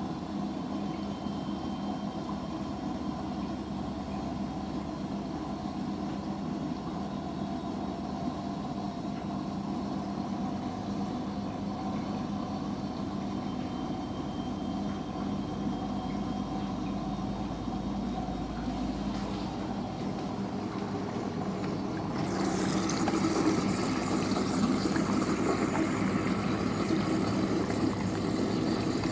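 Washing machine running with a steady motor hum. About three quarters of the way through it gets louder and a hiss joins the hum.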